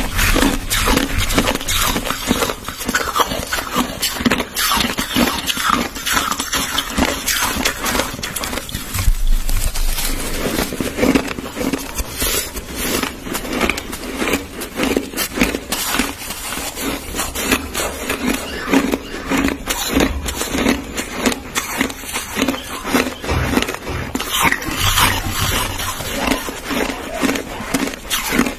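Crushed white ice being chewed close to the microphone: dense, crisp crunching in a steady chewing rhythm of about two bites a second.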